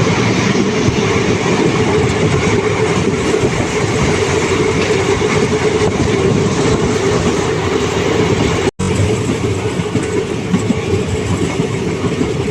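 Passenger train running on the rails: a steady, loud noise of the wheels and coaches on the track. It cuts out for an instant about nine seconds in.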